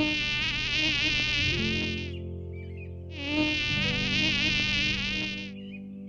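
Mosquito wing whine in two buzzing bouts of about two seconds each, the pitch wavering as it flies, over soft sustained background music.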